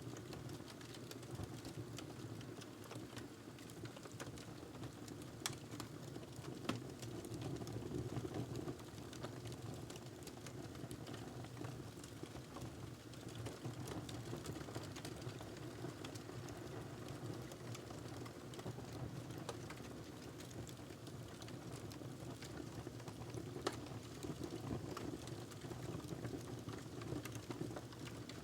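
Wood fire burning in a fireplace: a steady low rumble and hiss with continual small crackles and a few sharper pops.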